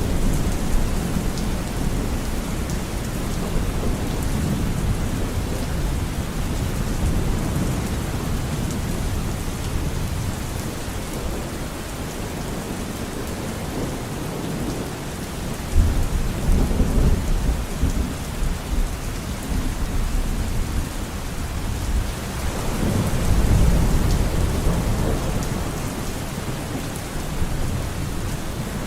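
Steady heavy rain with thunder rumbling underneath, swelling loudest about halfway through and again a few seconds before the end.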